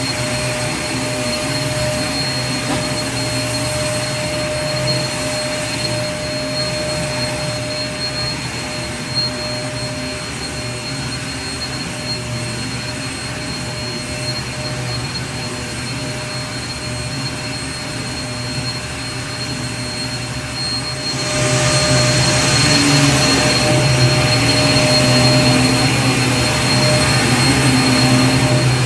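Vacuum cleaner motor running continuously, a steady whooshing drone with a constant high whine and low hum. About 21 seconds in it grows louder and hissier, then holds steady again.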